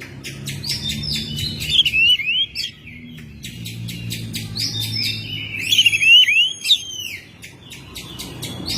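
Oriental magpie-robin (kacer) singing: two bursts of varied song a few seconds each, made of whistled notes and quick slurred phrases mixed with sharp clicks. A low steady hum runs underneath.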